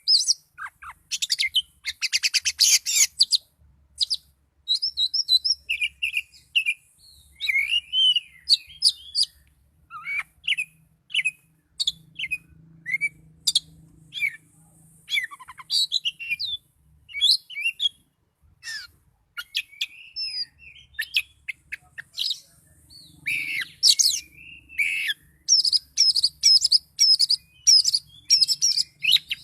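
Oriental magpie-robin singing a long varied song of loud whistled phrases, chirps and quick pitch slides, broken by short pauses. It includes a dense rattling trill about two seconds in and a fast run of repeated notes near the end.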